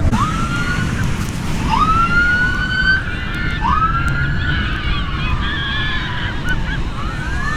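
Police car sirens wailing, several overlapping. Each rises in pitch, then holds or slowly falls, over a steady low rumble.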